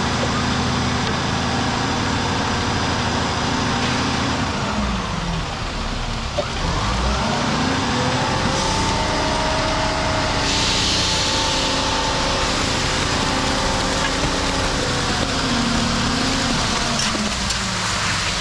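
Diesel engine of a ready-mix concrete truck running at high revs while it discharges concrete. The pitch drops and climbs back about five seconds in, and again near the end. A brief hiss comes in the middle.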